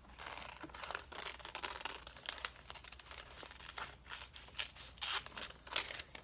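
Scissors cutting through glossy magazine paper, with the page rustling and crinkling as it is turned: a run of irregular short snips and crackles.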